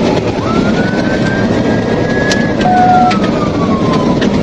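Police car siren wailing. Its pitch rises, holds high for about two seconds, then falls slowly before climbing again near the end, over heavy engine and road noise from a cruiser in a high-speed pursuit. A short beep sounds about three seconds in.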